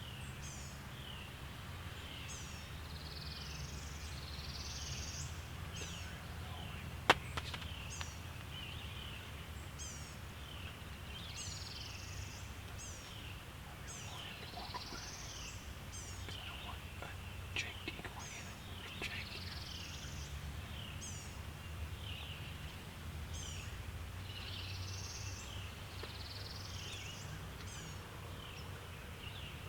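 Songbirds calling and singing in the woods, several short chirps and swept phrases repeating every second or two, over a steady low rumble. A single sharp click stands out about seven seconds in.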